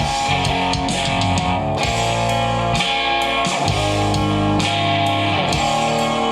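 Rock song: strummed guitars playing sustained chords that change about every second, over a drum kit, with no vocals.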